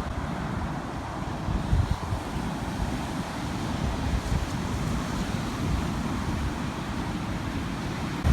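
Steady wind rumbling and hissing across the microphone.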